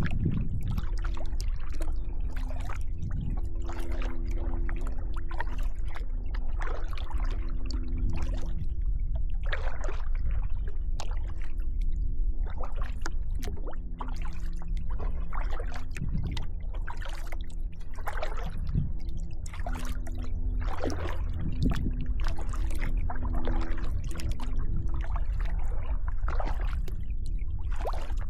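Kayak paddling: paddle blades dipping and water splashing and dribbling off them in an irregular stroke rhythm, over a steady low rumble.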